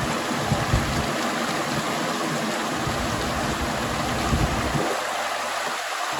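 River water rushing steadily, a continuous dense hiss of flowing water with occasional low surges.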